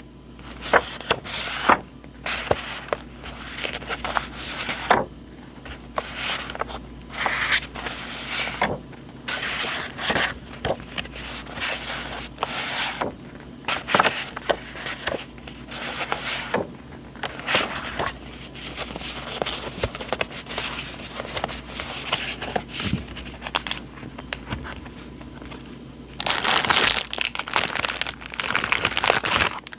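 Paper and packaging handled close to the microphone: irregular rustling and crinkling with small sharp taps. A longer, louder run of crinkling comes near the end.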